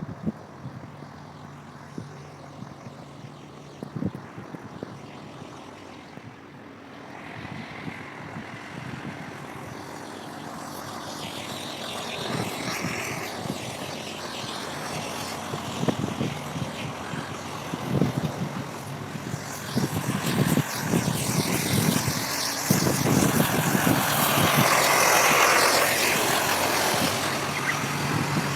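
A passing vehicle's engine noise that builds slowly from about a quarter of the way in, is loudest near the end and eases off slightly. Light ticks and knocks sound over it, some of them footsteps.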